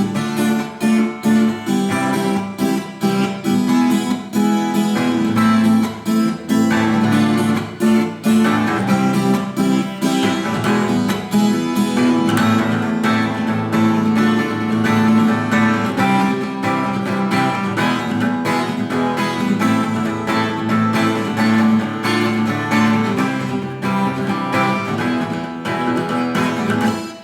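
Acoustic guitar strummed in a steady rhythm, playing open chords in A minor without barre chords. The strumming stops at the very end.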